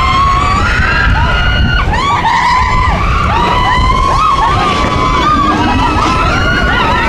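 Mine-train roller coaster running along its track at speed with a steady low rumble. Several overlapping high-pitched drawn-out squeals and cries ride on top of it, held for a second or more and dipping in pitch now and then.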